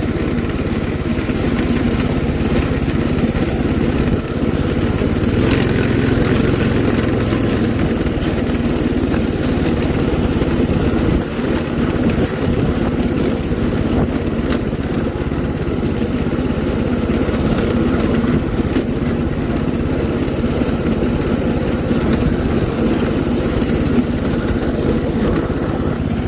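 Mini bike's small single-cylinder engine running steadily.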